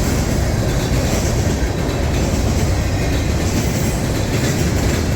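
A long manifest freight train's cars rolling past close by: a steady, loud rumble of steel wheels on rail.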